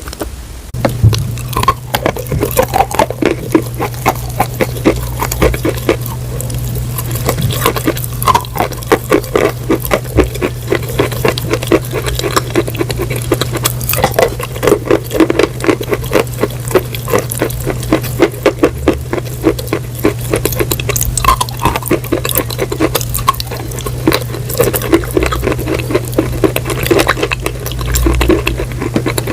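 Close-miked crunching: something brittle being bitten and chewed, a dense run of sharp crackles and snaps over a steady low hum.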